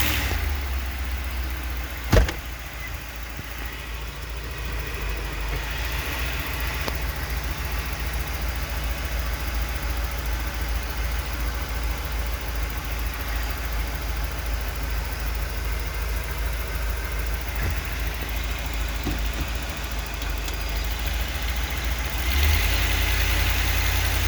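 Ford 351 Windsor V8 in a 1994 E350 van running under light load as the van creeps forward. This is a test for a misfire that shows up as hesitations and coughs under load. There is a single sharp knock about two seconds in, and the engine gets louder near the end.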